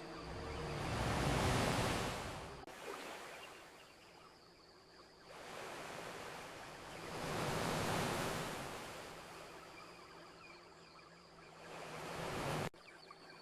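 Gentle ocean waves washing onto a beach, two swells about six seconds apart, each rising and fading away; the sound drops off abruptly near the end.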